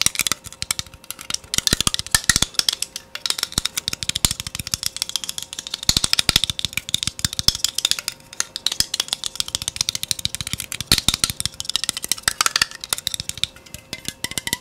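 Fast ASMR tapping: dense, irregular flurries of quick taps and clicks, many a second, with no pause.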